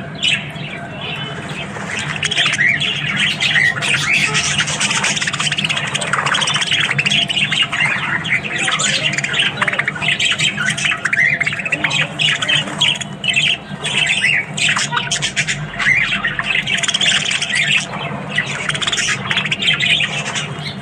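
Several budgerigars chattering and squawking continuously, many quick calls overlapping.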